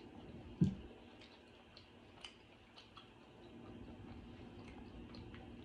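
Quiet mukbang eating sounds: scattered small wet clicks and smacks of chewing, with one low thump about half a second in.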